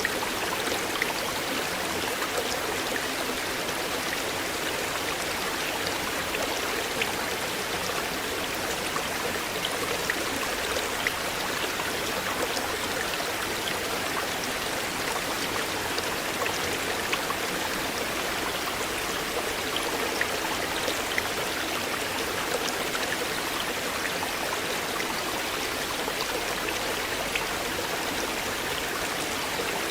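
River water flowing steadily over stones, a continuous babble with scattered small drips and splashes.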